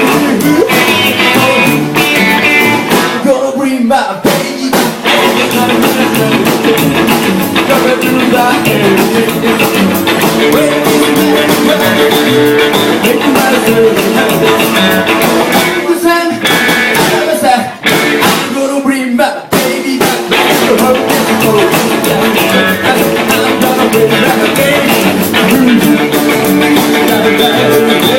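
Live rock-and-roll band playing loudly, with electric guitar to the fore. There are short breaks in the music early on and again a little past the middle.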